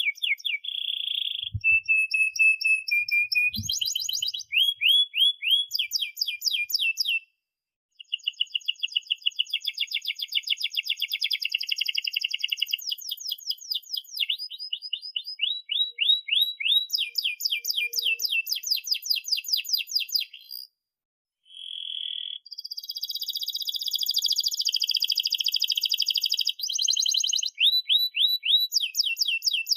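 Domestic canary singing a long, varied song of fast repeated chirps and rolling trills, broken by two brief pauses, one about a quarter of the way in and one about two-thirds in.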